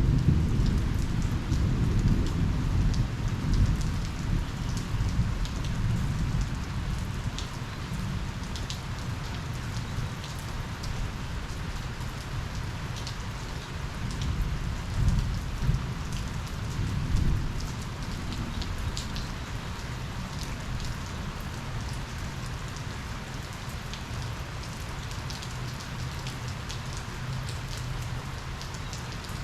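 Steady rain falling, with many small drip ticks, under a low thunder rumble that fades over the first several seconds and swells again briefly about halfway through.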